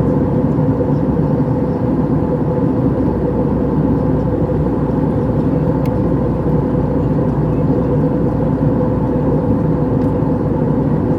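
Steady drone inside the cabin of an Airbus A321 airliner, with an even hum running through it.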